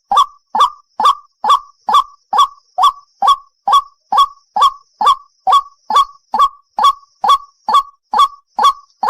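White-breasted waterhen calling: a short 'ruak' note repeated about twice a second in an even, unbroken series.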